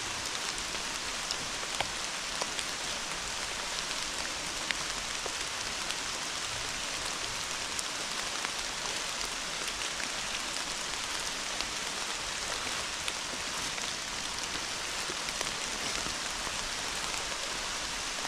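Steady rain falling, with scattered single drops tapping close by.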